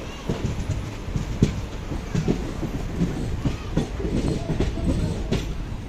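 A train hauled by a WAG-9HC electric locomotive running past, its wheels clattering over the rails with a steady rumble and irregular sharp knocks.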